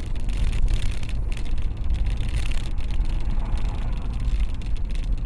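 Steady low rumble of a moving car's engine and road noise, with rough buffeting.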